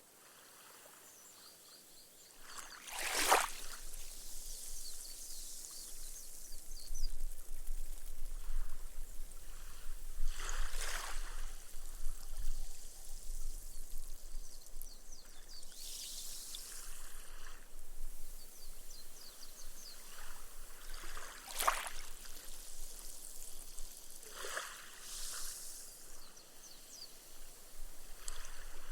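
Small gentle waves lapping on a sand beach. A wavelet breaks about three seconds in and again three more times, each followed by the hiss of foam fizzing out as the water soaks into the sand.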